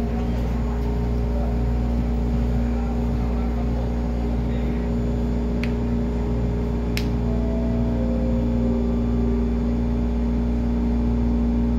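Onboard sound of an MTR East Rail Line refurbished electric train: a steady low rumble with a constant hum and a few faint tones that step downward a little past the middle, and two sharp clicks about six and seven seconds in.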